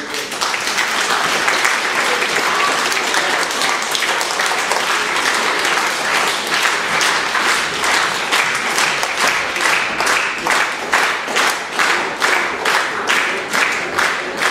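Audience applauding, the clapping turning into rhythmic unison clapping about halfway through.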